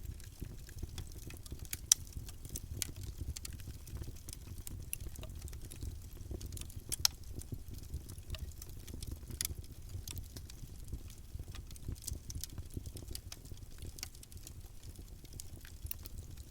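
Wood campfire burning, with a steady low rumble of flame and frequent irregular crackles and pops, two sharper pops about two and seven seconds in.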